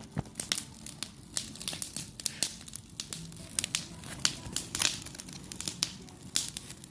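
Campfire crackling: irregular sharp pops and snaps, several a second.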